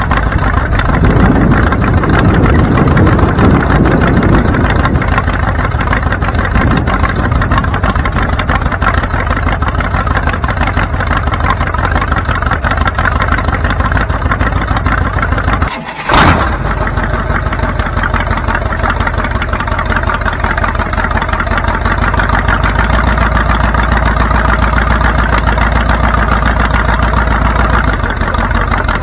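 A car engine running steadily. About halfway through the sound dips briefly and there is a single sharp click.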